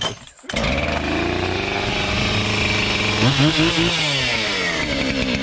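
Gas chainsaw starting about half a second in and running, with a rev that rises and falls in pitch around three seconds in.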